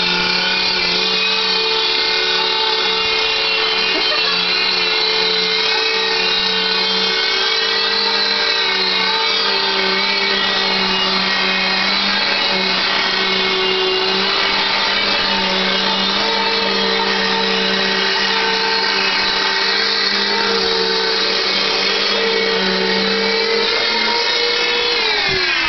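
Vacuum cleaner motor running with a steady high whine, then switched off about a second before the end, its pitch sliding down as it winds down.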